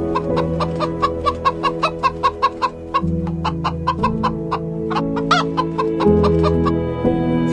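Rapid clucking calls of a farm bird, about four to five a second for the first three seconds, then sparser and irregular, over steady background music.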